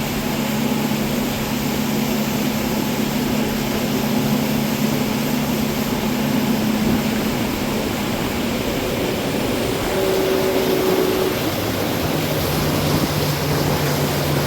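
A boat's motor running steady over a constant rushing noise. Its note shifts lower about halfway through.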